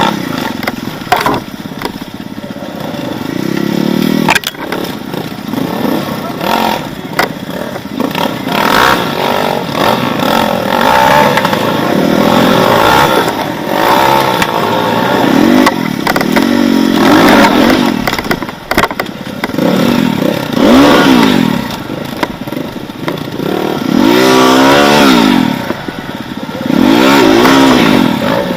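Enduro motorcycle engine revving in repeated surges, its pitch rising and falling every few seconds, with clattering knocks from the bike over rough ground.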